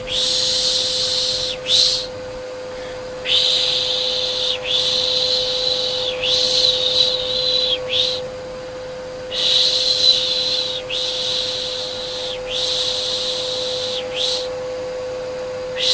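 Repeated long 'shhh' shushing sounds, each about a second and a half long, over the steady hum of a vacuum cleaner motor. This is a white-noise mix used to soothe a baby to sleep.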